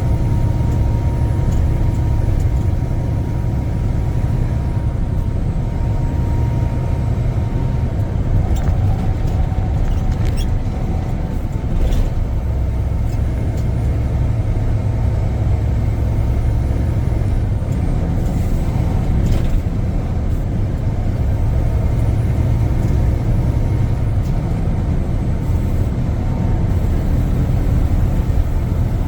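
Semi-truck running steadily on the highway, its engine and road noise making a heavy, even low rumble, with a brief knock about twelve seconds in.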